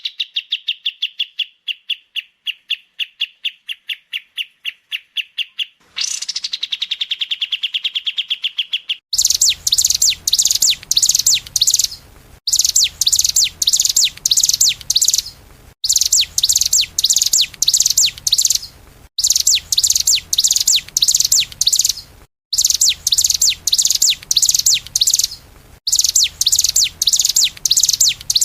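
Recorded songbird song edited into a masteran loop: first a fast run of repeated chirps that begins with a rising sweep and lasts about six seconds, then a second fast run, then from about nine seconds in a loud, high, dense twittering song in phrases of about three seconds, each cut off abruptly before the next.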